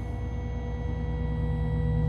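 Ambient drone of steady sustained tones over a low hum, the hum swelling louder toward the end.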